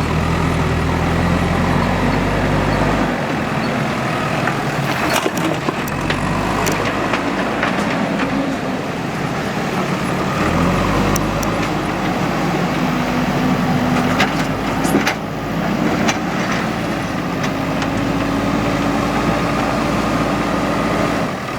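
Diesel engine of a JCB 3DX backhoe loader running as it works, its note rising and falling with load, with a few sharp knocks.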